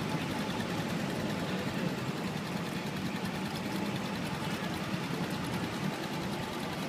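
Busy city street traffic: a steady blend of motorcycle and car engines running, with no single event standing out.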